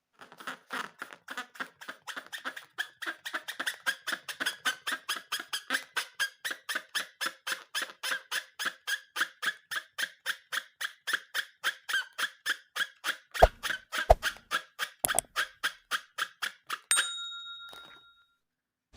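A long rapid run of short squeaks, about five a second, then a brief ringing ding near the end.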